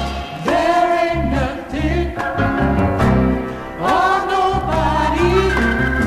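Black gospel choir singing in harmony over a backing band with a steady bass line, the voices sweeping up into long held notes twice.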